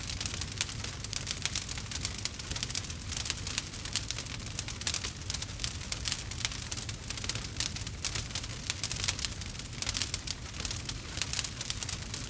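Campfire crackling: dense, irregular quick snaps over a low steady rumble.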